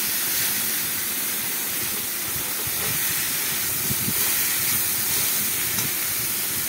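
Boiled mahua fruit slices frying in mustard oil in a kadai: a steady sizzle as they are stirred and tossed with a spatula, with a few scrapes of the spatula against the pan about four seconds in.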